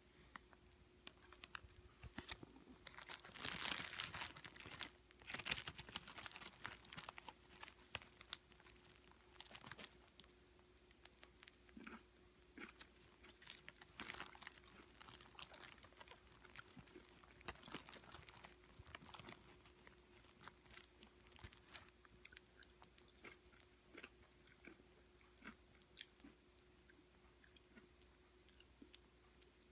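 Opossum eating potato salad: wet smacking and chewing, busiest in the first ten seconds or so, then sparser single chews.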